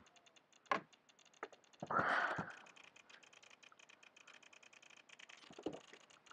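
A kayak being moved off: knocks on the hull, with a half-second rush of water about two seconds in, over a steady fine crackle of rapid clicks.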